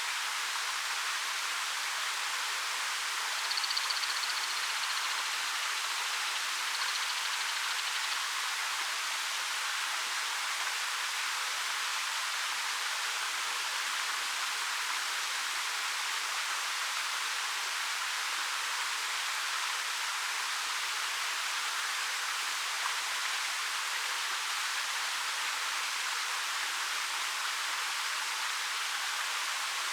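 Steady, even rush of a 13 m waterfall pouring over rock, a constant hiss of falling and splashing water.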